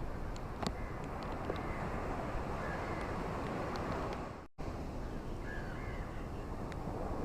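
Ocean waves washing on a tropical beach, a steady rush, with a few brief bird calls and scattered small clicks over it. The sound cuts out for an instant about four and a half seconds in.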